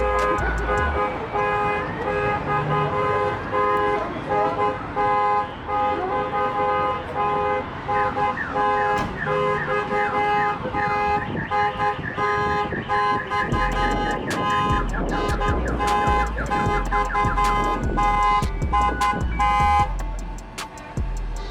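Truck air horn blowing in repeated blasts, several steady tones sounding together as a chord that starts and stops again and again. Deep bass comes in about two-thirds of the way through.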